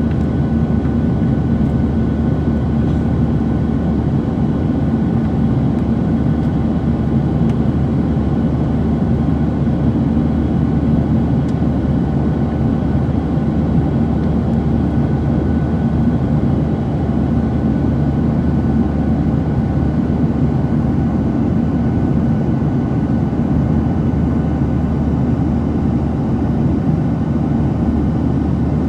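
Steady cabin noise inside a Boeing 737-700 climbing after takeoff: the constant drone of its CFM56 turbofan engines and rushing airflow, with faint steady tones running through it.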